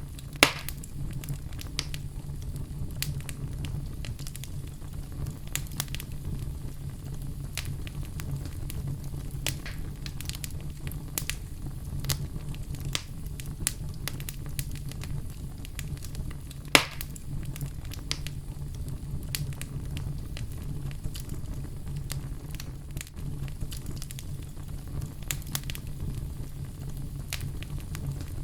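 Oak logs burning in a fireplace: a steady low rumble of flame with scattered crackles and pops, two of them sharper and louder, about half a second in and about two-thirds of the way through.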